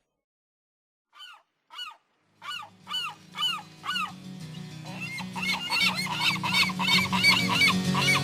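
A bird's short arching honk-like calls: two on their own, then repeated about twice a second, coming faster and louder over the second half. Music with a steady low backing enters about two seconds in.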